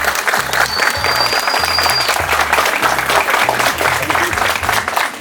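Guests applauding over music with a repeating bass line; a single long, high whistle rises out of the clapping about a second in.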